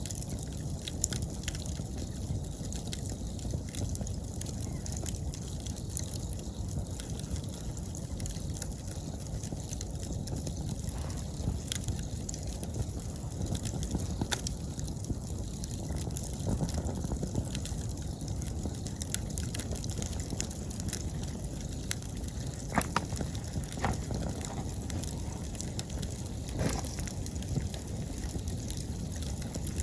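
Wood campfire burning with a steady low rush of flame and scattered sharp crackles and pops, a few louder pops near the end. Faint autumn insects chirring high above it.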